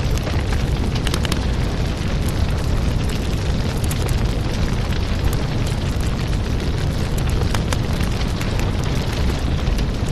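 Fire burning in a fireplace: a steady low rumble with scattered sharp crackles.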